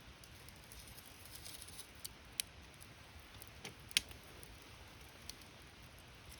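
Campfire burning, wood crackling over a faint steady hiss, with a handful of sharp pops, the loudest about four seconds in.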